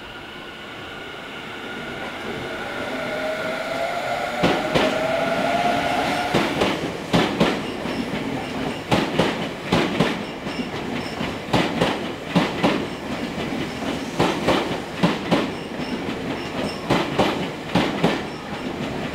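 Tobu 50090 series electric train pulling out and passing close by. In the first few seconds its inverter-driven motors whine, rising in pitch as it speeds up. From about four seconds in, its wheels clack in pairs over the rail joints, again and again.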